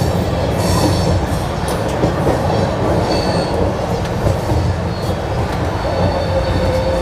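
Passenger train running along the track, heard from on board: a steady rumble of wheels on rails with faint wheel squeal now and then.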